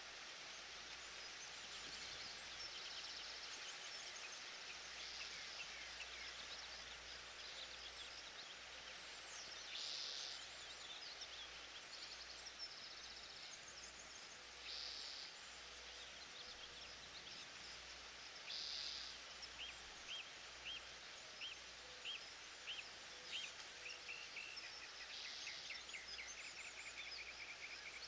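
Forest ambience: birds singing and calling over a steady hiss. In the last third one bird gives a run of short, evenly spaced notes, followed by a quick trill.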